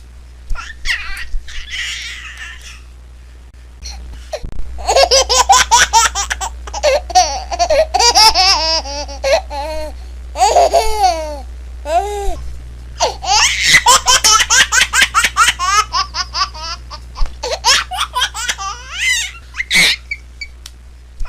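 A baby laughing hard in two long bouts of rapid, breathy belly laughs, with a few squeals between them.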